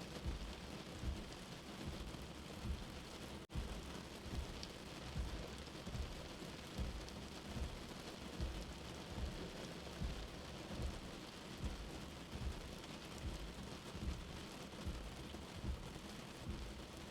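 Steady rain mixed with a slow heartbeat: soft low thumps come about every 0.8 seconds over the even rain noise. There is a split-second dropout about three and a half seconds in.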